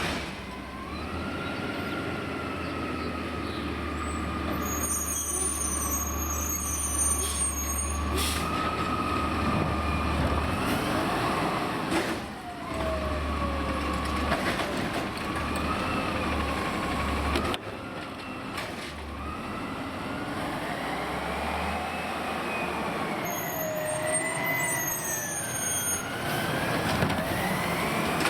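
Autocar side-loader garbage truck working its automated arm: the engine is revved and a hydraulic whine slowly rises and falls in pitch as the arm lifts and shakes a recycling cart, with a couple of sharp bangs from the cart being slammed.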